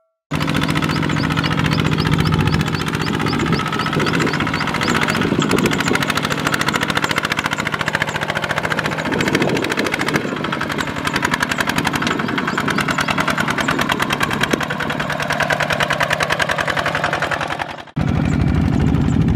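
Single-cylinder diesel engine of a Kubota walking tractor running hard with a fast, even knocking beat while hauling rice through deep mud. It breaks off for a moment near the end and starts again.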